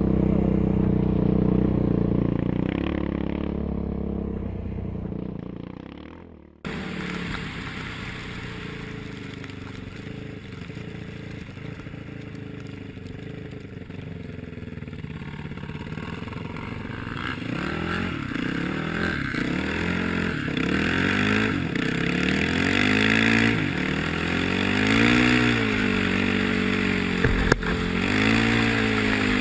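Motorcycle engine running at speed with wind rush. It fades, cuts off abruptly after about six and a half seconds, and picks up again; later its pitch rises and falls over and over as the rider works the throttle and gears. A brief sharp click comes near the end.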